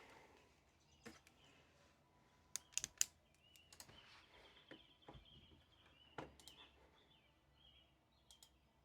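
Near-silent room with scattered faint clicks and taps of small objects handled at a desk, a quick cluster of three about two and a half to three seconds in, and faint bird chirps in between.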